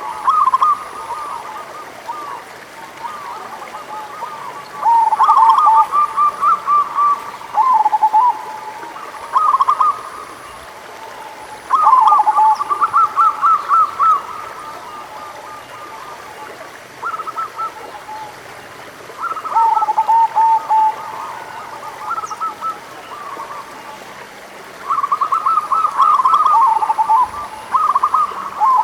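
Zebra doves (perkutut) cooing in repeated bouts of rapid, rolling notes, a higher and a lower strand of notes overlapping, with pauses of a few seconds between bouts.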